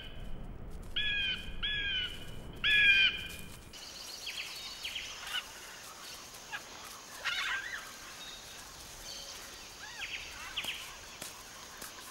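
Woodland birdsong. A bird gives three loud, harsh calls in the first three seconds, then softer scattered chirps sound over a steady high hiss.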